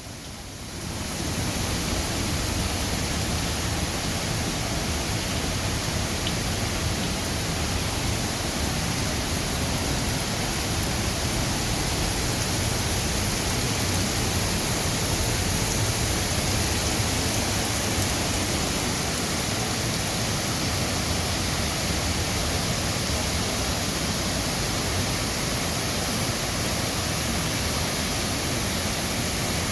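Waterfall roaring, a steady rush of falling water that swells up over the first second or two and then holds even.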